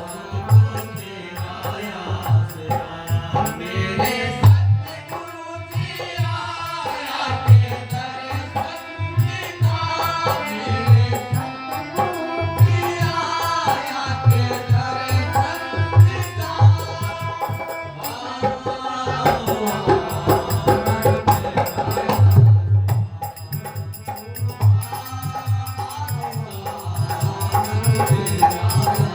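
Devotional hymn (shabad) sung by a single lead voice to a steady hand-drum beat.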